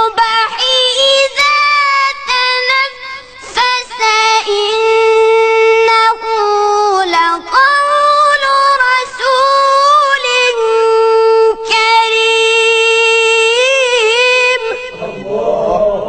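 A child's high voice chanting Quran recitation in a slow, ornamented tajweed style, holding long drawn-out notes with wavering melodic turns, stopping about fifteen seconds in.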